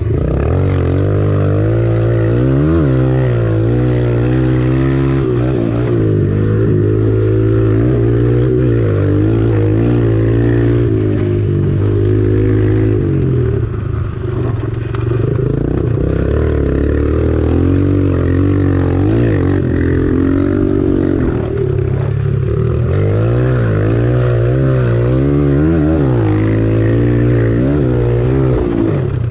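Kawasaki KLX140 single-cylinder four-stroke engine, revving up and falling back again and again as it is ridden hard.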